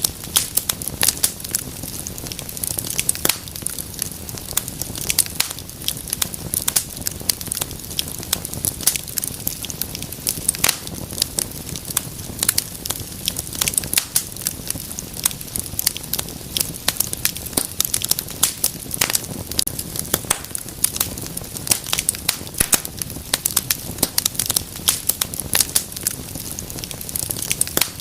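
Wood fire burning in a fireplace, crackling with many sharp pops and snaps over a low steady rush of flame.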